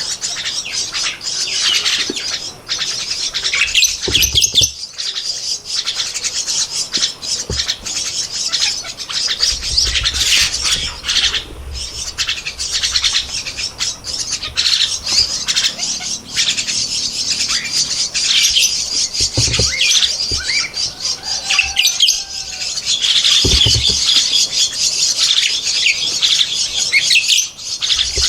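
Javan myna nestlings giving harsh, rapid begging calls, a dense chatter that goes on almost without a break while being fed. A few low thumps come and go beneath it.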